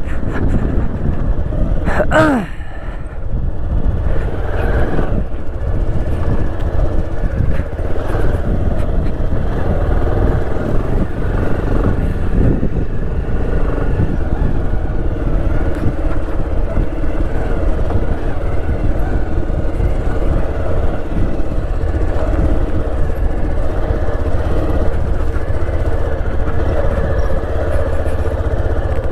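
Motorcycle engine running steadily while being ridden. There is one brief sharp sound about two seconds in.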